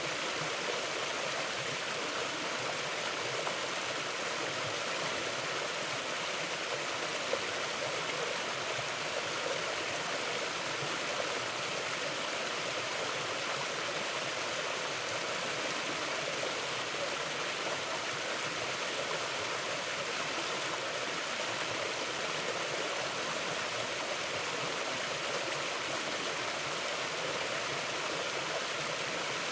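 A mountain river flowing over rocks: a steady, even rushing of water that does not change.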